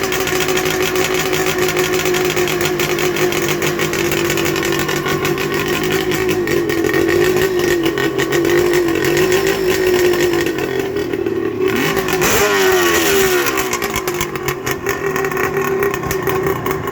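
1977 Suzuki GT750 custom's two-stroke triple idling steadily on a custom exhaust, running warm with the choke just turned off. Its engine speed dips and recovers briefly about twelve seconds in.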